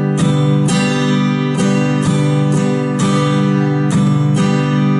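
Acoustic guitar strumming a G major chord over and over in the standard down, down-up, up-down-up strumming pattern, the chord held unchanged throughout.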